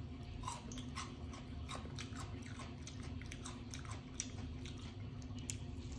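Close-up eating sounds of a person biting and chewing leftover fried chicken off the bone, with many small irregular mouth smacks and clicks.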